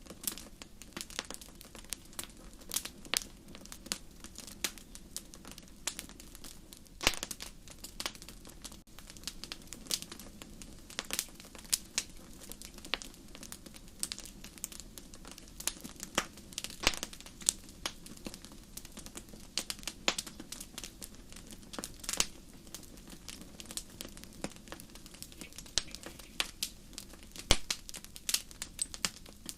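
Wood fire crackling in a fireplace: irregular sharp pops and snaps, several a second, over a low steady rush of flame. A few louder pops stand out, around seven, seventeen and twenty-seven seconds in.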